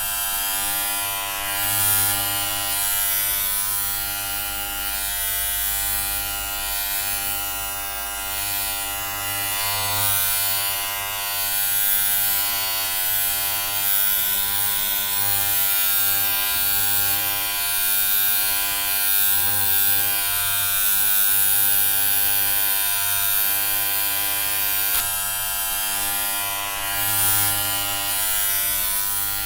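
Electric hair clippers buzzing steadily: a constant hum with many overtones and a high hiss, swelling slightly in loudness now and then.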